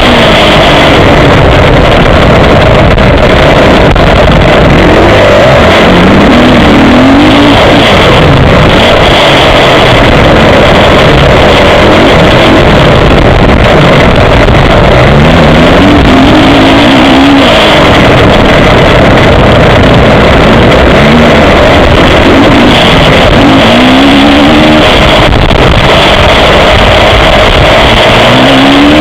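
Motocross bike engine heard from an onboard camera, running loud under hard throttle. Its pitch repeatedly climbs as it revs out and then drops back, several times over.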